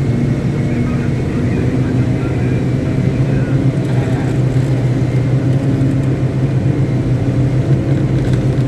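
Caterpillar 777D haul truck's V8 diesel engine running steadily with a low, even hum during a ground test.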